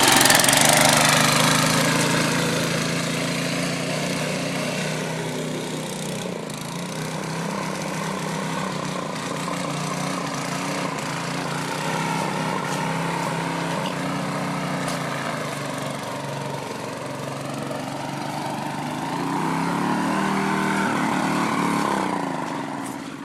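Go-kart's 6.5 hp single-cylinder engine running, its pitch rising and falling with the throttle; loudest at the start, picking up again near the end, then fading off in the last second.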